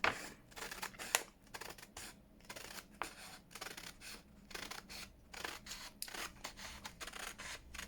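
Scissors cutting through paper: a run of short, irregular snips.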